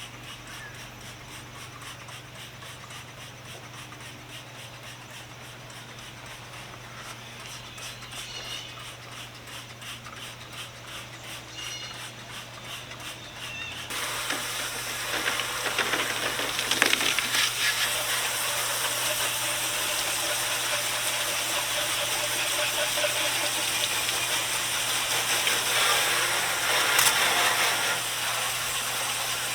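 Cleaning a metal tool box with spray cleaner: regular scrubbing strokes, then about halfway through a loud, steady spraying hiss takes over.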